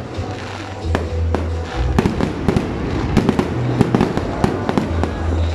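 Aerial fireworks shells bursting with rapid crackling and popping, coming thick and fast from about two seconds in, over bass-heavy music.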